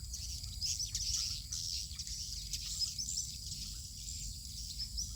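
Swiftlets twittering: many short, high, rapid chirps overlapping one another throughout, over a steady low rumble.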